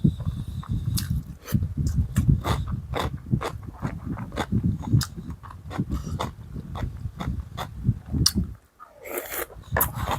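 A person chewing and eating close to the microphone, with many small clicks and smacks throughout. The eating stops briefly near the end, where a short breathy noise is heard.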